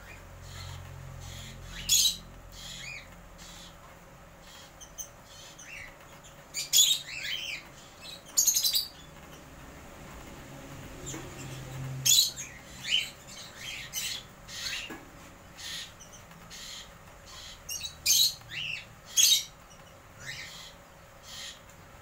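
Caged pet birds in an aviary calling: scattered short, sharp chirps and squawks, some coming in quick runs of two or three.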